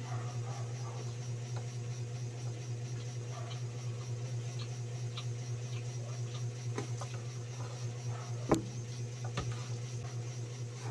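Close-up eating sounds: a person chewing and smacking on roast chicken while tearing it apart by hand, with small scattered clicks and one sharper click about eight and a half seconds in, over a steady low hum.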